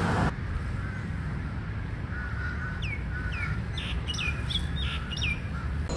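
A bird calling: a quick run of about six short chirps, each sliding downward, in the second half, over a steady low background hum.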